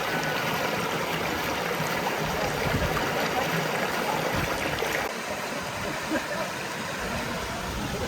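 Water flowing steadily, a continuous rushing with no clear pitch or rhythm.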